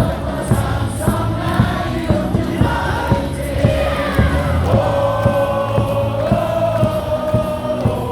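Baseball stadium crowd singing a cheer song in unison over amplified music, with a steady beat about twice a second.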